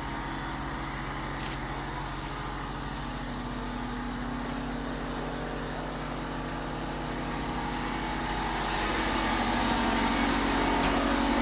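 An engine running steadily with a low hum, growing louder from about eight seconds in.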